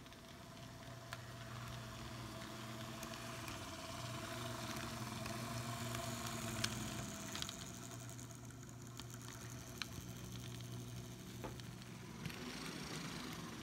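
Model train locomotive running along the track: a steady electric motor hum with scattered clicks from the wheels and rails. It grows louder toward the middle and then eases off.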